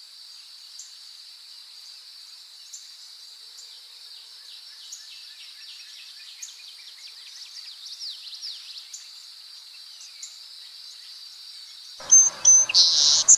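Steady high-pitched insect trilling, like crickets, with faint scattered chirps. About 12 seconds in, louder chirping calls break in.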